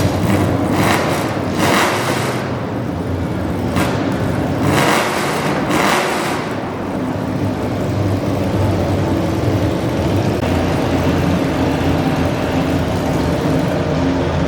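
A modified garden pulling tractor's engine running steadily and loudly, with several short bursts of noise in the first half.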